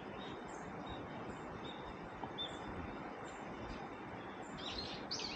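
Small birds chirping over a steady background hiss: a few faint short calls, then a quicker run of chirps near the end.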